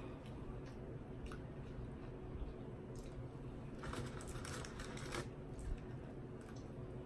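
Close-miked eating sounds: a person chewing and biting into sauced chicken wings, with small wet clicks and crunches. A denser stretch of crackling crunch comes about four seconds in and lasts about a second.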